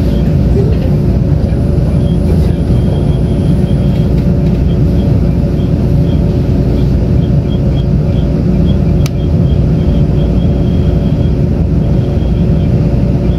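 Inside a Taiwan Railway Tze-Chiang express train running between stations: a steady, loud low rumble of the wheels on the track, with a steady hum and faint light ticking over it. One sharp click comes about nine seconds in.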